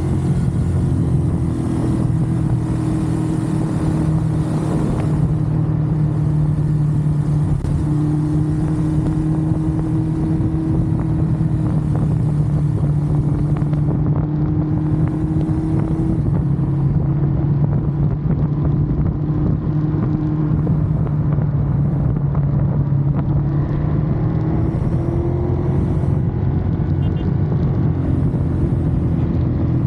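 Ducati Monster's L-twin engine running at a fairly steady cruise, its pitch drifting only slightly up and down, with a steady rushing noise over it.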